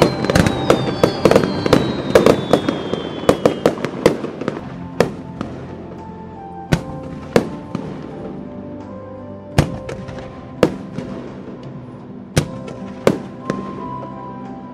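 Fireworks going off: a dense volley of bangs and crackles with two falling whistles for the first four seconds, then thinning to single bangs about a second apart. Background music plays underneath.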